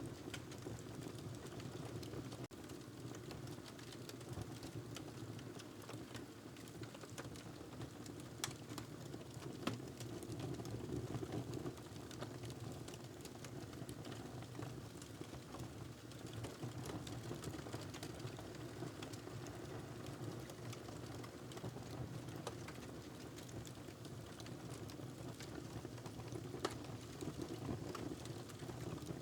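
Wood fire crackling in a fireplace: a steady low rumble of burning with irregular sharp pops and snaps scattered through it, a few louder pops standing out.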